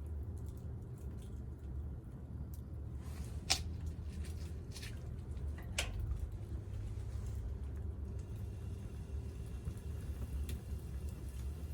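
Wood campfire crackling over a steady low rumble, with scattered small ticks and two sharper pops, about three and a half and six seconds in.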